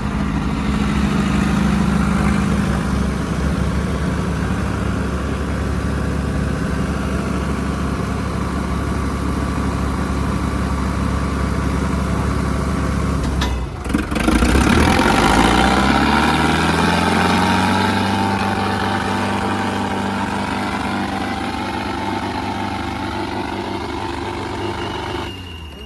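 Tractor diesel engines running hard under heavy pulling load, a steady low engine drone. About halfway through the sound breaks off briefly, then an engine's pitch rises and holds steady.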